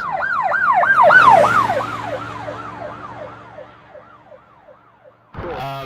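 Emergency vehicle siren sounding a fast yelp, sweeping up and down about three times a second. It is loudest about a second in, then fades away as the vehicle passes, with its engine faintly audible beneath.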